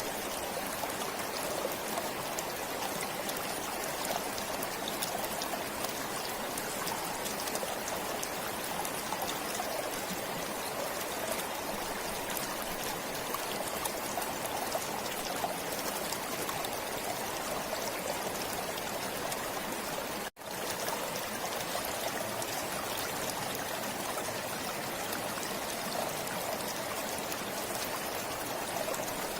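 Stream water flowing steadily. The sound cuts out for an instant about two-thirds of the way through, then returns.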